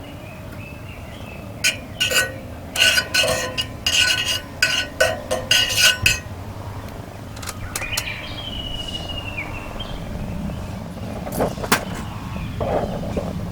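Metal cookware and utensils clinking and rattling in a quick run of ringing clinks through the first half. A short high squeak comes about two-thirds of the way in, and a few knocks come near the end.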